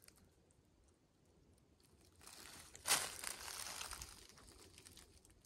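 Footsteps crunching and rustling through dry leaves and brush on a forest floor, starting about two seconds in with one sharper crunch, then fading.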